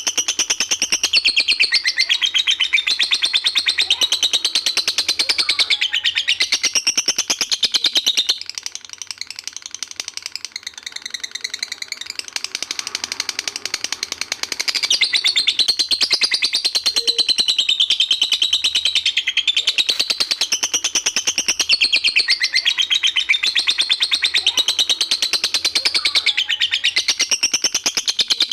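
A lovebird's long 'ngekek' song: an unbroken chattering trill of very rapid high notes, wavering up and down in pitch. It goes softer for several seconds about a third of the way through, then carries on at full strength.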